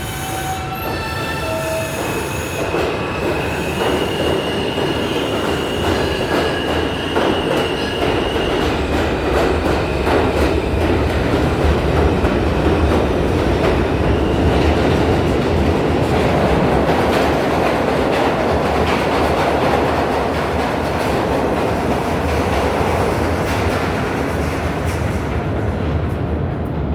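New York City subway train pulling through the station, with steady rumble and wheel clatter that builds to a peak in the middle and eases off near the end. A few stepped high tones from the electric propulsion rise in pitch over the first several seconds.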